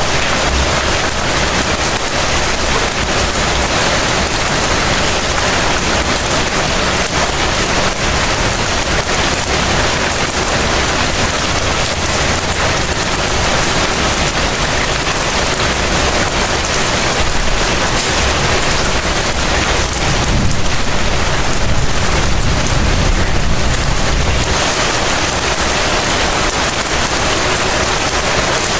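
Heavy rain falling in a steady, dense hiss. About twenty seconds in, a low rumble swells for about four seconds, then fades.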